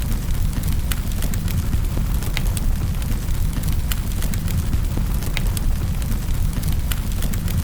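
Wood fire burning in a fireplace: sharp crackles and pops about every second over a steady low rumble.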